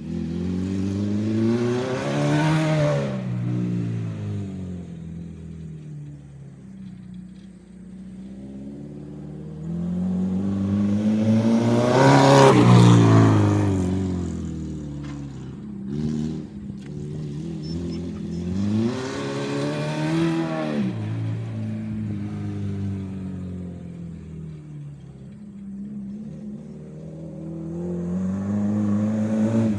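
Acura RSX's four-cylinder engine revving up and easing off four times as the car laps a small dirt track, rising and falling in pitch each time, loudest about halfway through.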